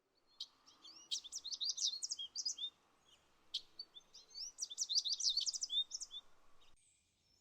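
A small bird singing in two bursts of rapid, high chirps and short rising whistles, the second burst beginning about three and a half seconds in, over faint background hiss.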